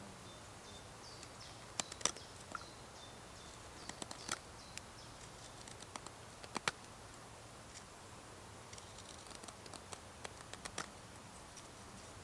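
Scattered sharp clicks and snaps, irregular, over a faint steady background. A few faint high chirps come in the first few seconds, and a run of small quick clicks comes near the end.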